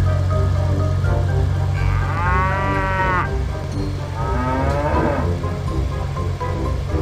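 A cow mooing twice, two long drawn-out calls, over background music.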